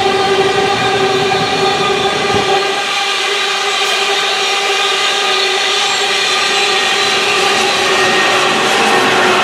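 Loaded iron-ore train of hopper wagons rolling past, a steady high-pitched tone with overtones held over the noise of the wagons, with the low rumble easing after a couple of seconds.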